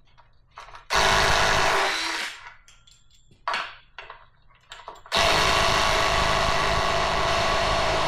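A handheld power tool driving a socket to back large studs out of an engine block. It runs in a short burst about a second in, then again in a long steady run from about five seconds in. Light clicks of the socket and tool come between the runs.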